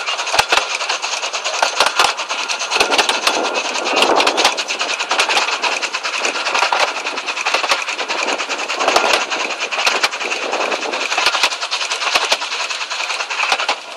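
Miniature passenger railway train running, its carriage wheels rattling along the track with many sharp, irregular clicks over the rail joints, heard from inside a moving carriage at an open window.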